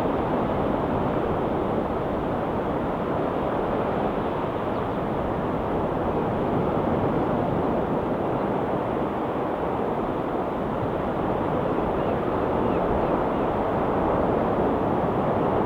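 Ocean surf washing steadily, an even rushing hiss with no single wave standing out.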